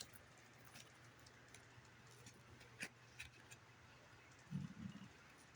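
Near silence with a few faint ticks and taps of playing cards being handled, and a short low sound about four and a half seconds in.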